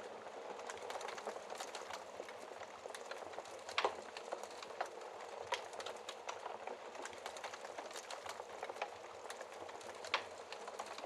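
Wood fire crackling: a steady hiss of burning logs with frequent small pops, and louder snaps about four seconds in and near the end.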